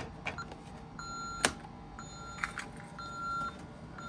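Honeywell 6160CR2 alarm keypad beeping as the Vista 20P system is armed Away: a string of short beeps at one pitch, a bit under one a second, with a few light clicks among them.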